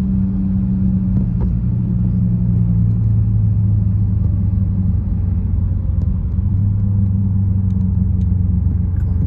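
Muscle car engine idling with a steady, low rumble.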